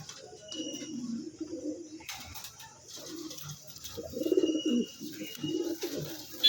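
Red Lahori pigeons cooing: a run of low, throaty coos, the loudest about four seconds in, with a few thin high chirps among them.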